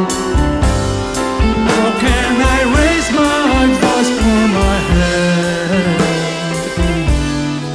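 Prog rock band playing an instrumental passage: drums keeping a steady beat under bass and a lead melody line that wavers with vibrato through the middle of the passage.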